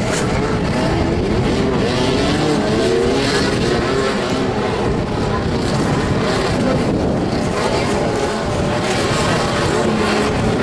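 Several motorcycle engines revving at once, their pitch rising and falling as the riders accelerate and slow in play.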